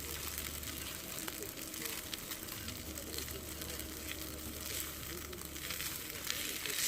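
Food sizzling over a campfire, a steady hiss with scattered small crackles.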